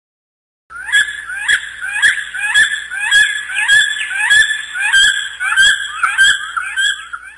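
A bird calling over and over, a short upward-sliding note repeated about twice a second, starting just under a second in.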